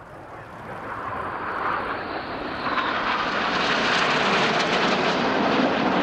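A formation of BAE Hawk T1 jet trainers flying past: a steady jet rush that grows louder over the first three seconds and then holds loud.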